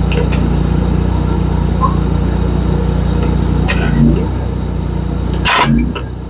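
A steady low engine drone, with a few sharp clicks and a short loud burst of hissing noise about five and a half seconds in.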